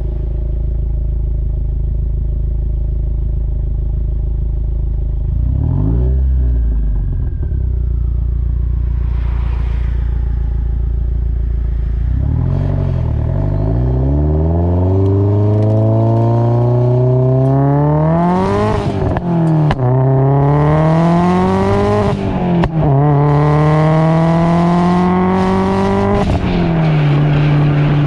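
Subaru WRX turbocharged flat-four through an aftermarket catback exhaust, running steadily at first, then accelerating through the gears about halfway through: the pitch climbs, drops back at each of three upshifts, and settles steady near the end.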